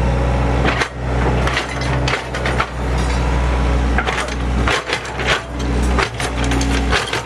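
Heavy machine engine, most likely the Kobelco SK115SR excavator's, running steadily. From about a second in, a quick, irregular series of knocks, cracks and scraping sounds lies over it, like wood or debris being struck and dragged.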